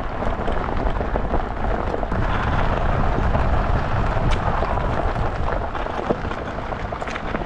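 Off-road luge cart running fast down a rough dirt track: a steady, loud rumble and rattle from the wheels shaking over the uneven ground, mixed with wind rushing over the helmet-mounted camera's microphone.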